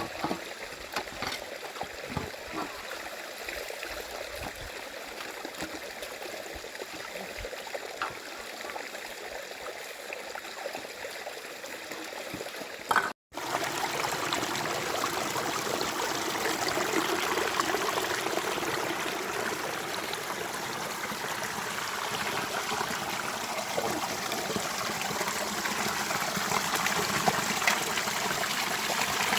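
Rainwater running and trickling in a small stream, a steady flow. It breaks off for an instant about halfway through, then runs louder.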